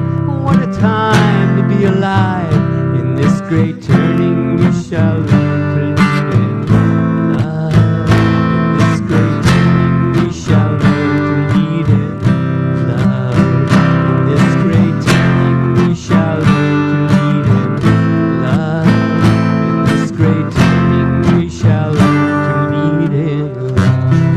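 Live acoustic guitar music, steady strummed and plucked chords in an instrumental passage at the close of a song.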